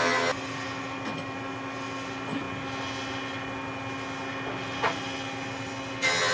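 An electric power tool's motor running steadily with a drone of several fixed pitches. About six seconds in it turns into a loud, harsh hiss for about a second, as though the tool bites into wood.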